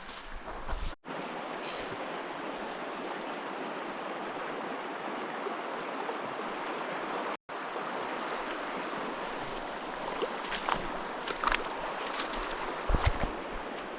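Steady rush of a small mountain trout stream's flowing water, cut twice by brief dropouts. A few short knocks and low thumps come near the end.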